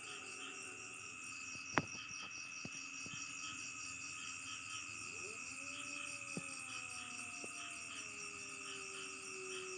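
Night insects chorusing: crickets trilling steadily, with a faster, even pulsing chirp above. A single sharp click comes about two seconds in. In the second half a faint low drawn-out tone slides slowly downward.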